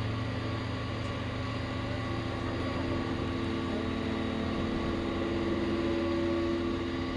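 A vehicle engine running steadily, with a continuous droning whine that strengthens slightly about two seconds in.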